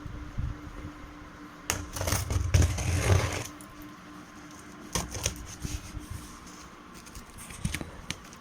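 Washing machine's cardboard box and packing being handled and pulled open: rustling and scraping, loudest about two to three and a half seconds in, then scattered clicks and taps.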